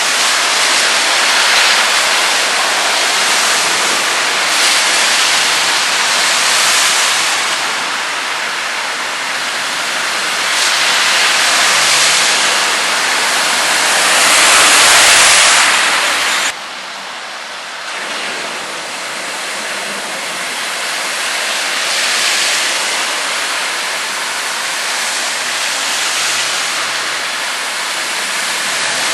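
Heavy rain and water spray on a flooded road: a steady rushing hiss that swells to its loudest about fifteen seconds in, then drops off sharply.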